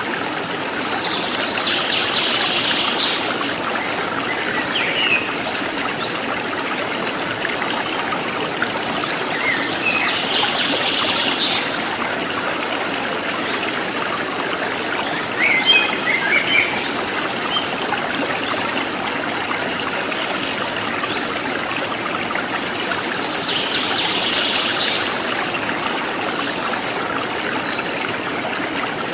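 A forest stream trickling and babbling steadily, with wild birds calling over it now and then; the loudest is a short burst of chirps about halfway through.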